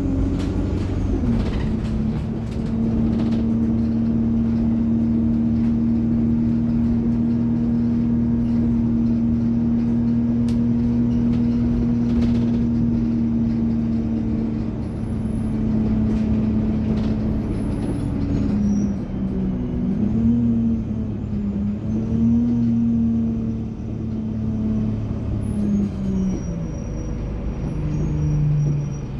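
Alexander Dennis Enviro200 bus running, its Allison automatic gearbox and turbocharger whining. The whine holds one pitch for about fourteen seconds, then wavers up and down from about eighteen seconds in and drops near the end.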